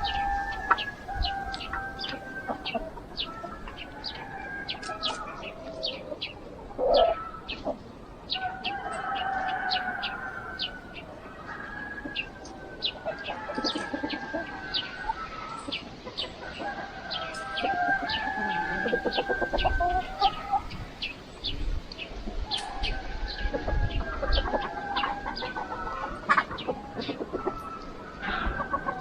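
Free-range chickens calling: roosters crow again and again, each crow lasting a second or two, with clucking among them. Short high chirps run throughout.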